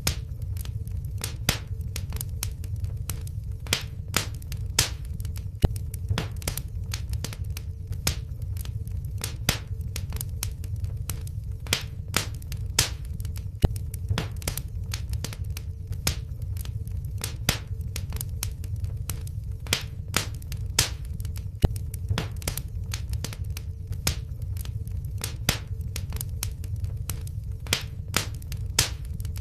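Wood fire in a fireplace crackling, with frequent sharp, irregular pops and snaps over a steady low rumble of the flames.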